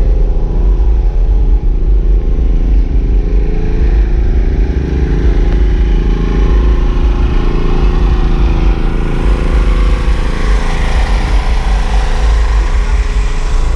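A vehicle engine running steadily, with a hissing noise that swells from about nine seconds in and stops just before the end.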